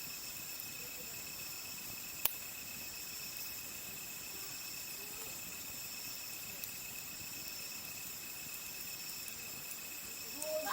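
Steady chorus of crickets, several high-pitched trills held throughout, with one sharp pop from the burning campfire wood about two seconds in.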